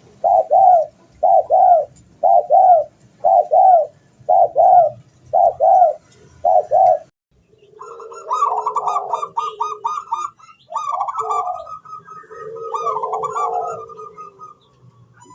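Zebra dove (perkutut) cooing: a run of paired coos repeated about once a second for the first seven seconds. After a short gap come denser, overlapping cooing phrases with quick trills.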